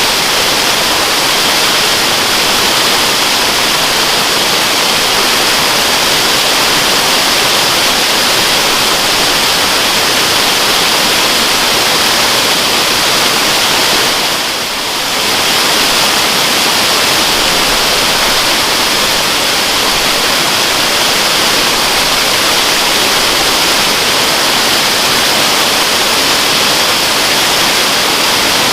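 Waterfall: water rushing steadily, dipping briefly in loudness about halfway through.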